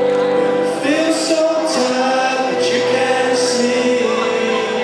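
Live band music with singing: a voice sings a melody over steadily held chords.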